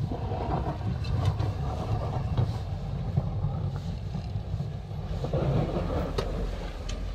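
Engine of a snow-clearing vehicle running with a steady low rumble, a few faint ticks over it.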